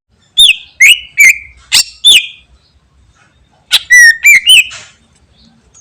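Cucak ijo (green leafbird) singing loudly: a run of five sharp, downward-sweeping whistled notes, then after a short pause a second burst of about four quick notes.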